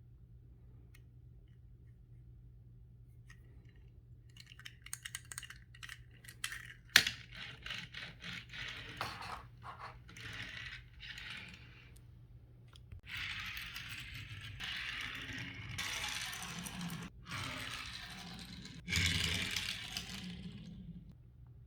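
Toy car packaging being handled and opened by hand: plastic and cardboard crinkling and clicking, with one sharp click about seven seconds in, then longer spells of rustling near the end.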